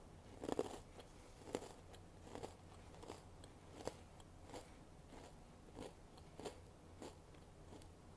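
Close-up crunching of a Coca-Cola Oreo sandwich cookie with popping candy being bitten and chewed. A louder bite comes about half a second in, then steady chewing crunches about one every two-thirds of a second, growing softer.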